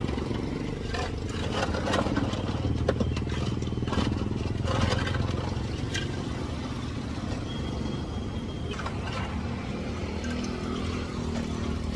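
Plastic lids clicking onto takeaway cups: a string of sharp clicks, densest in the first half, over a steady low rumble. A thin high tone sounds briefly about seven seconds in.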